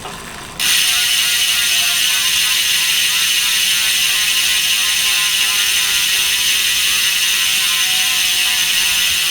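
LUN Hyper 50 rear hub's freehub ratchet buzzing as the wheel freewheels: a loud, fast, even rattle that starts suddenly about half a second in and holds steady.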